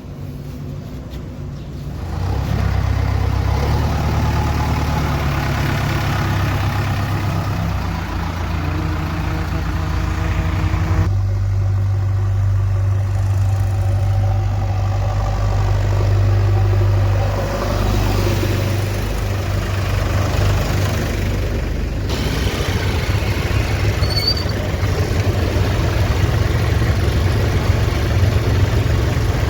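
Diesel engine of a backhoe loader or tractor running steadily with a low hum. The sound changes abruptly about 2, 11 and 22 seconds in.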